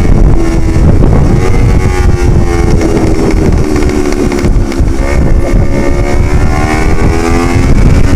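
Yamaha R25 parallel-twin engine running loud through a Proliner short full-system aftermarket exhaust while riding; its note sags and then climbs again past the middle, with heavy wind buffeting on the microphone.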